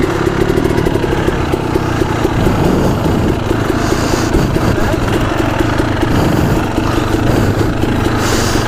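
Dirt bike engine running steadily at low speed, with no big revs, heard close up from the rider's position.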